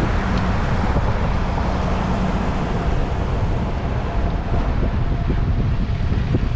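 Wind rushing over the microphone of a rider on a moving road bike, a steady heavy rumble with road noise beneath it.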